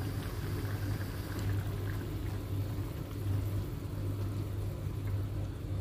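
Mussel broth with vegetables bubbling at a boil in a wok over a gas flame, a steady simmering hiss with a constant low hum underneath.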